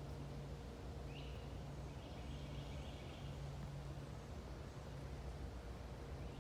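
Outdoor ambience with a steady low mechanical hum underneath and a steady mid-pitched tone. Above it, birds give repeated high chirping phrases, with a short rising call about a second in.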